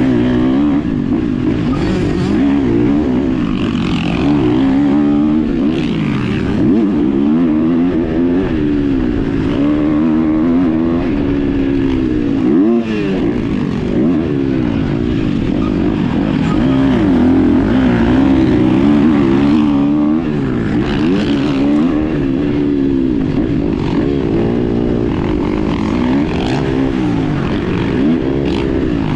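Motorcycle engine heard on board during track laps, revving up and dropping back again every second or two as the rider accelerates and slows for corners.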